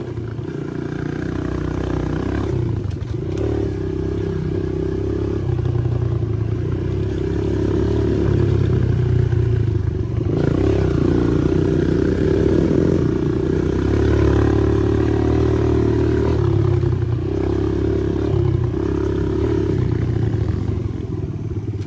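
Dirt bike engine running while riding along. Its pitch and loudness rise and fall every few seconds with throttle and gear changes.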